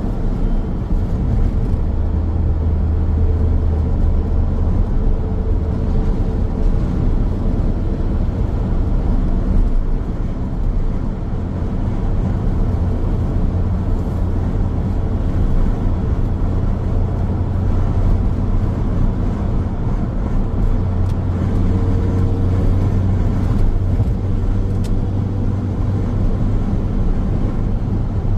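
Car driving along a road: a steady low rumble of tyres on the asphalt and engine drone, with no sudden events.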